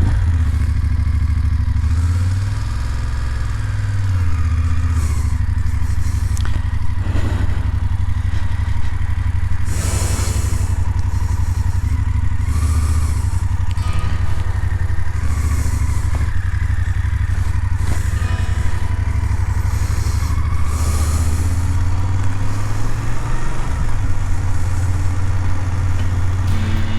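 BMW F 750 GS parallel-twin engine running under way, with wind hiss over the riding.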